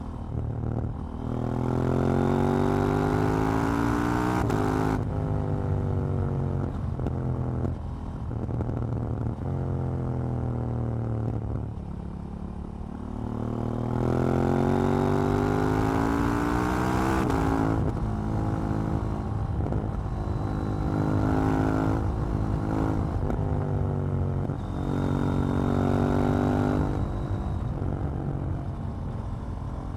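KTM 790 Duke's parallel-twin engine pulling hard through the gears, its pitch rising and then dropping at each shift, several times over. In between it eases off and winds down before accelerating again.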